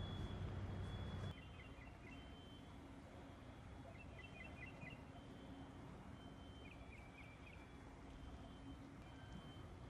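A steady low hum cuts off abruptly about a second in. Quiet outdoor ambience follows, with small birds chirping in short rapid series several times.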